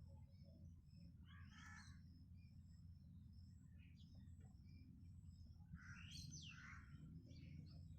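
Crows cawing faintly: one call about a second and a half in and a pair of calls about six seconds in, with thin high chirps from smaller birds and a steady low hum underneath.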